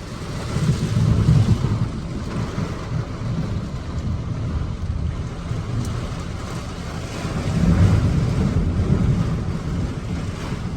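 Heavy rain and gusting wind in a thunderstorm, a steady rushing noise with wind buffeting the microphone. Deep low rumbles swell up about a second in and again near eight seconds.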